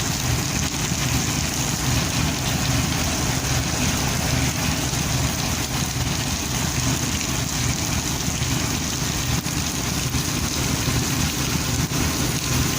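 Diesel locomotive engine idling: a steady, unevenly pulsing low throb.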